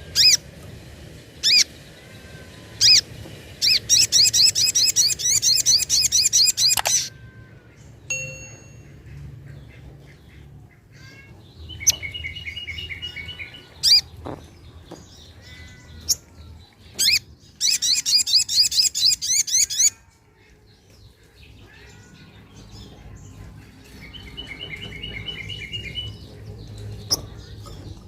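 Sogok ontong (little spiderhunter) calling and singing: sharp high chirps, two long bursts of very fast trilling notes, and two shorter passages of steadier, lower trills.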